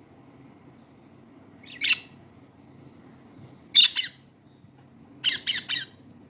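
Lovebirds giving short, high-pitched squawking calls: one about two seconds in, a quick pair near four seconds, and a fast run of three near the end, over a faint low hum.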